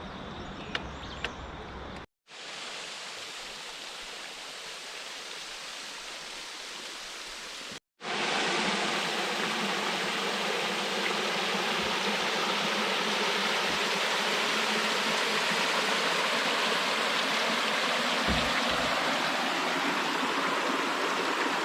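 River water rushing over a riffle or rapid: a steady, even hiss heard in three edited pieces separated by two brief dropouts, the last and loudest from about eight seconds in.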